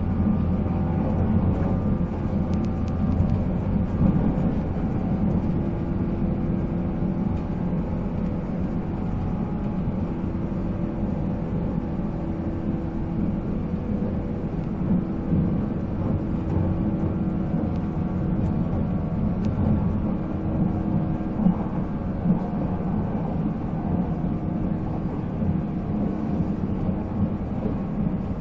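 485-series electric train running at speed, heard from on board: the MT54 DC traction motors and gearing whine at a fairly steady pitch over the rumble of wheels on rail, with a few light knocks.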